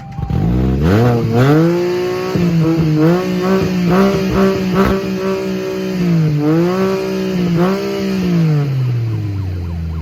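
Three-wheeler's engine through a loud exhaust, revved up sharply from idle and held at high revs for several seconds with a few brief dips, then let fall back toward idle near the end.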